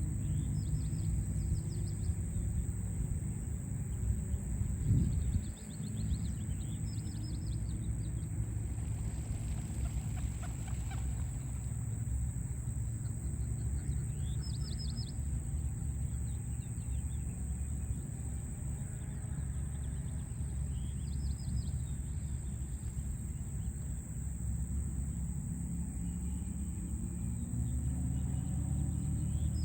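A small bird's short trilled calls, repeated every few seconds, over a steady low hum of city traffic.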